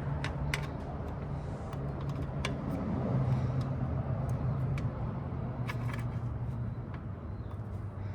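Scattered small clicks and taps of hands and tools working the carburetor intake boots, over a steady low hum.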